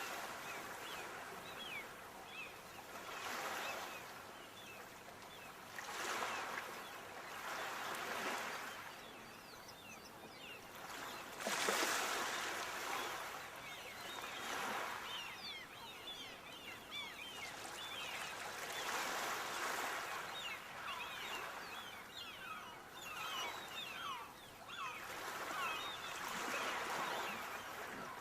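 Sea waves washing onto the shore in surges every few seconds, one stronger surge about halfway through, with water trickling back between them.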